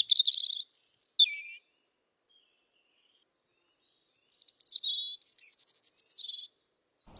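European robin singing: thin, wiry, high phrases that wind up and down. There are two bursts of song a few seconds apart with a silent pause between them.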